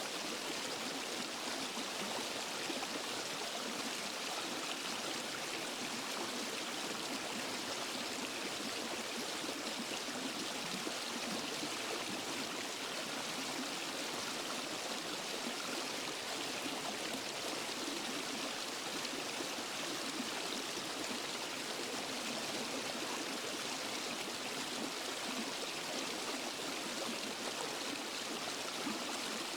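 Steady rushing and splashing of a natural waterfall and forest stream, an even hiss of falling and flowing water with no pauses or changes.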